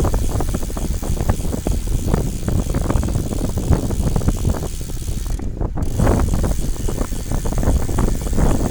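Wind buffeting the microphone: a loud, rough low rumble with irregular crackling.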